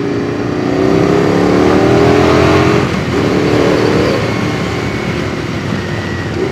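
Racing motorcycle engine at high revs, accelerating with rising pitch, dropping sharply about three seconds in as at a gear change, then rising again.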